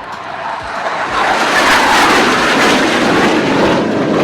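Jet noise of Surya Kiran BAE Hawk jet trainers flying past. It swells over the first second or so, stays loud for the next few seconds, and eases slightly near the end.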